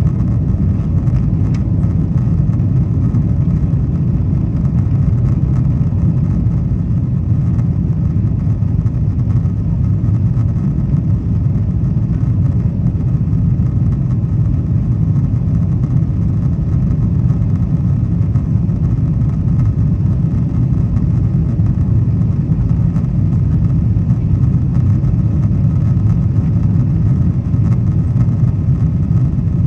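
Boeing 777-200ER economy cabin during the climb after takeoff: a loud, steady, low jet-engine and airflow roar.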